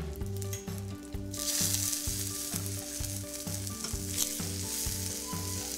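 Chickpea-batter pancakes frying in olive oil in a hot pan, a steady sizzle that grows louder about a second and a half in. A metal spatula knocks against the pan once, a little after the middle, as the pancakes are turned.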